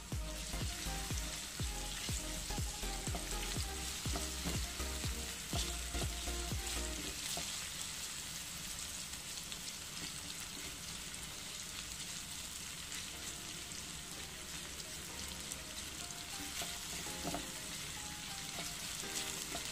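Sliced potatoes frying in hot oil in a pan, a steady sizzle, with light taps and scrapes of a spatula stirring them, most frequent in the first seven seconds or so.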